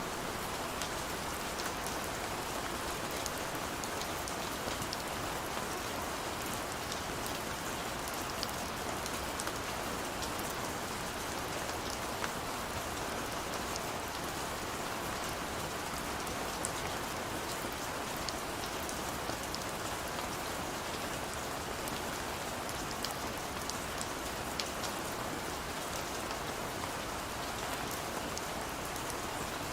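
Steady rain with scattered drop ticks against a window.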